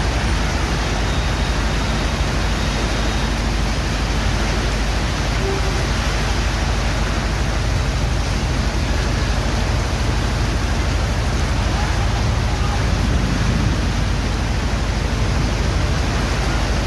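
Steady downpour in a rainstorm: a dense, unbroken hiss with a heavy low rumble underneath.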